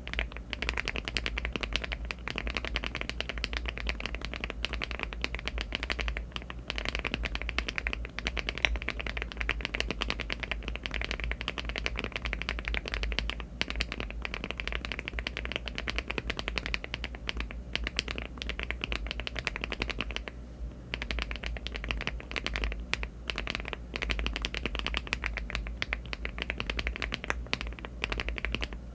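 Fast, continuous typing on a LEOBOG Hi75 aluminium-case mechanical keyboard fitted with HMX Cloud switches and Cherry-profile keycaps. There are brief pauses about every seven seconds.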